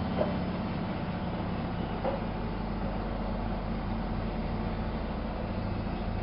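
Miele Novo Super W933 washing machine running, a steady motor hum whose low pitch shifts within the first second, with a couple of faint light knocks.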